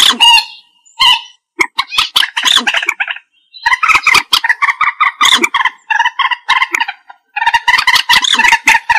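Common moorhen calling: repeated bursts of quick, pulsed notes, broken by short pauses about a second and a half in, around three seconds in and around seven seconds in.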